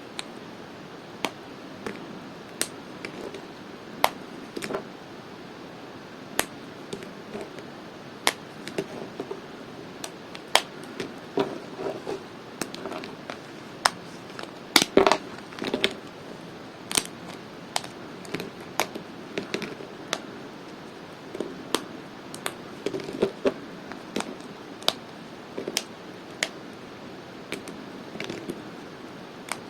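Dry bar soap being cut with a blade: sharp, crisp cracks come every second or so, with softer crumbly crunching between them.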